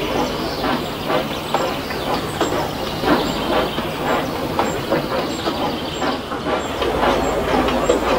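Dubbed train sound effect: a train running, with a regular clatter about twice a second over a low steady rumble.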